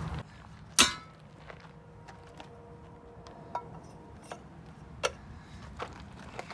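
A single sharp metallic clank about a second in, then scattered light clicks and taps of metal tools and parts being handled.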